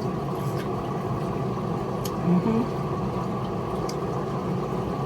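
A steady low mechanical hum at an even level, with a few faint clicks over it.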